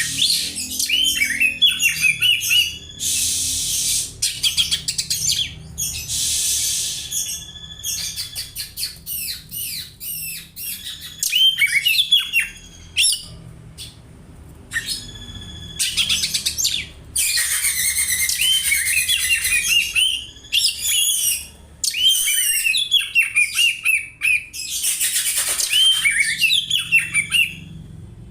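Oriental magpie-robin singing in rapid bursts of chirps and harsh chattering phrases, with short pauses between them, mimicking the calls of Eurasian tree sparrows.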